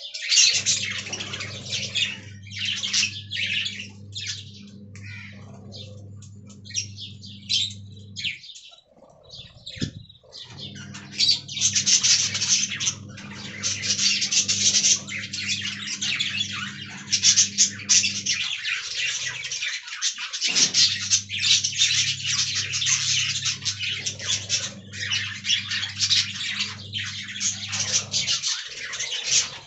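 Budgerigars chattering and warbling rapidly and almost without pause, with squawky notes mixed in, over a steady low hum that drops out twice.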